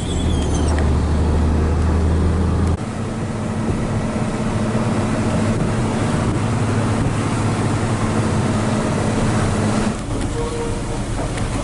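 Hino 500 FM320TI truck's diesel engine running under way, heard from inside the cab. Its deep note drops off suddenly about three seconds in and changes again near the end.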